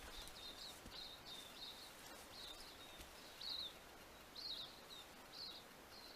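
A small bird chirping: a run of short, high notes repeating irregularly, one or two a second, over a faint steady outdoor hiss.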